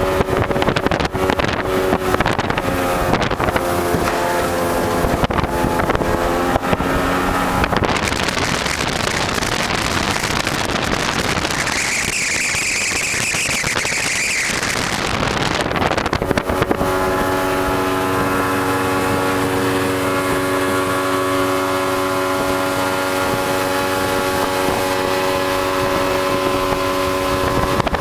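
Glasspar boat's motor running at a steady speed. From about eight to sixteen seconds in, its tone is drowned by a loud rushing noise, then the steady motor sound returns.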